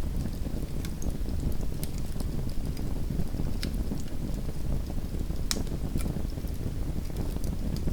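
Small wood fire crackling in a fireplace: a steady low rumble of burning with sharp pops scattered through it, the loudest about five and a half seconds in.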